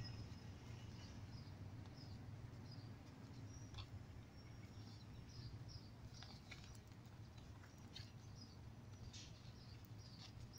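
Near silence: faint outdoor ambience with a low steady rumble and scattered short, high chirps of small birds.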